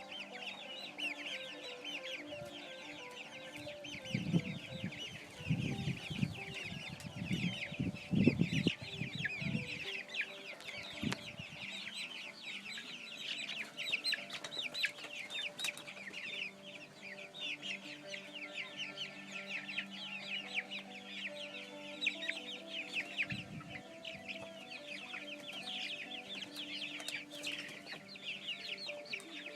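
A brood of about fifty young chicks peeping continuously, many short high cheeps overlapping. Low thumps and rumbling come in between about four and ten seconds in.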